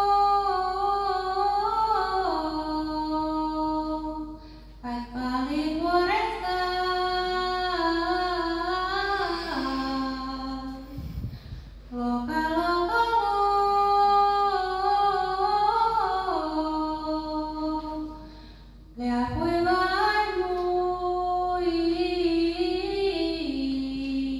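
A woman singing an Eastern Kemi Sámi joik-song (liutt) with a single voice, in long phrases of held notes that step down in pitch, with brief pauses between phrases.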